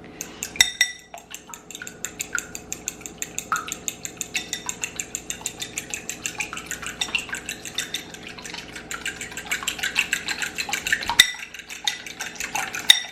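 Raw eggs being beaten in a bowl: a utensil strikes the side of the bowl in a quick, steady rhythm of clicks, about five a second, pausing briefly near the end.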